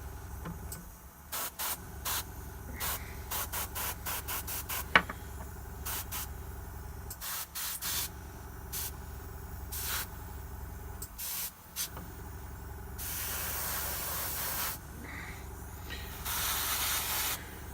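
Airbrush spraying paint in many short bursts, then two longer steady sprays of a second or two near the end, over a constant low hum. The paint is going on in thin passes to build up the colour's opacity.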